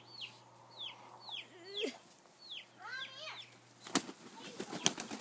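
Chickens calling in short, high, falling peeps about twice a second, with a fuller call about three seconds in. A few seconds in, wings start flapping in a quick flurry, as a handled bird struggles.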